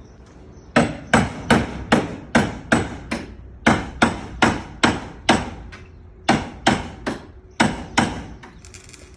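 Repeated hammer blows, about two to three a second with a couple of short pauses, starting about a second in, each ringing briefly: something being hammered into a crack in a truck's van body.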